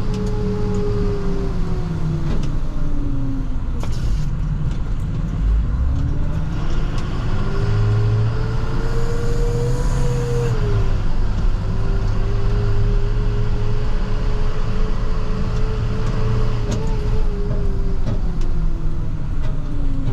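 Diesel plow truck heard from the cab while driving, a low rumble with a whine. The whine drops as the truck slows about two to three seconds in, climbs as it picks up speed until about ten seconds in, holds steady, then falls again near the end.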